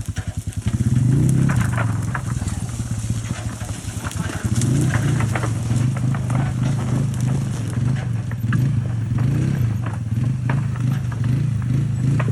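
A vehicle engine running under load, its pitch rising and falling as it revs. It gets louder about a second in and again around four and a half seconds.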